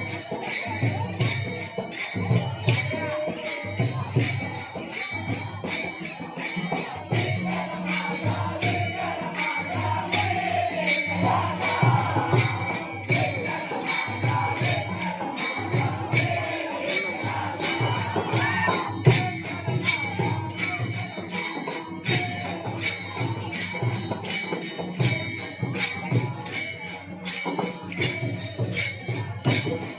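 Warkari bhajan accompaniment: small hand cymbals (taal) clash in a fast, steady beat over a drum. Faint chanting voices come and go in the middle.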